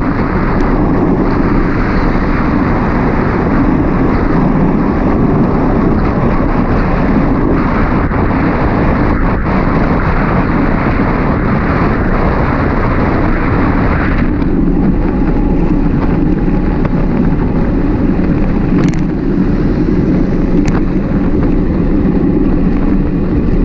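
Wind buffeting the microphone of a camera on a moving mountain bike: a loud, steady low rush with no pauses, easing slightly at higher pitches about two-thirds of the way in.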